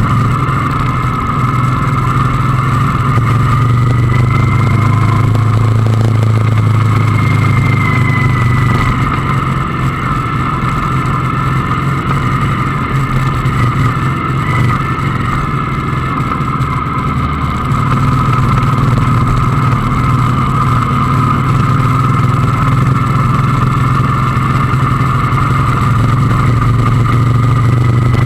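Motorcycle engine running steadily while riding, with little change in speed.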